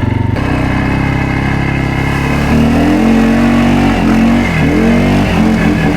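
Off-road vehicle engine revving under load in soupy mud, its pitch rising and dipping as the throttle works. A rushing hiss joins about half a second in.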